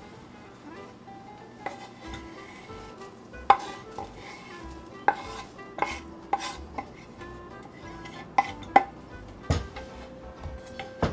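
Food being stirred and cooked in a pot or pan, a utensil clinking against the metal about a dozen times at irregular intervals, each clink ringing briefly. Soft background music plays underneath.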